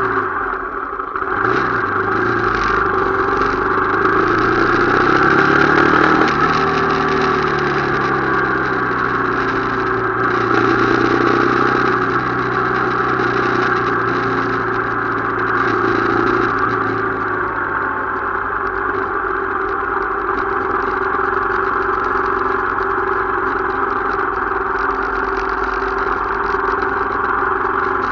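Motorcycle engine running on a ride. Its pitch rises over the first few seconds as it speeds up, holds steady, then eases off after about seventeen seconds.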